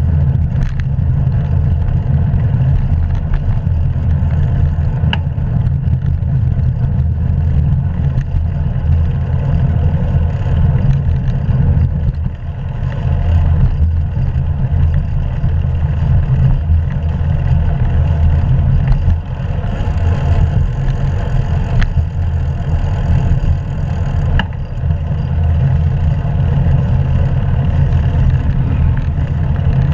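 Steady low rumble of wind buffeting and road noise picked up by an action camera on a moving bicycle, with a few faint clicks.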